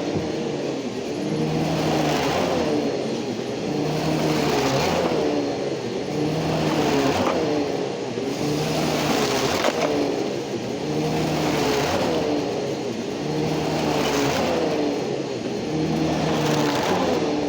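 Bissell PowerGroom upright vacuum cleaner's 12-amp motor running while vacuuming up sawdust and chicken bedding. Its pitch and rush of air rise and fall about every two seconds, stroke by stroke.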